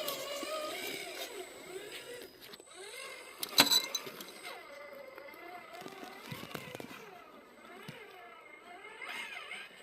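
Electric motor and gearbox of a radio-controlled scale trail truck whining, its pitch rising and falling as the throttle is worked. A sharp click about three and a half seconds in is the loudest sound.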